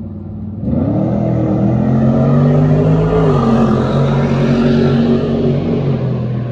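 A motor vehicle engine under hard throttle cuts in suddenly under a second in. Its pitch climbs briefly, then holds high and steady, dipping slightly about three seconds in.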